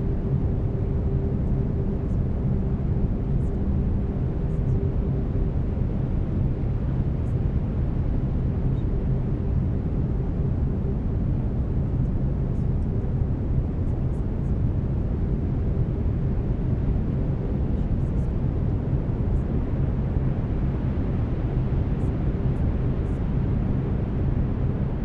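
Steady brown noise, a deep even rumbling hiss heaviest in the low end, with a faint steady tone from the binaural beat track.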